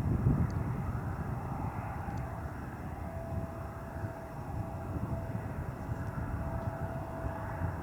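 Jet airliner engines rumbling, the rumble easing off over the seconds, with a faint steady engine whine underneath.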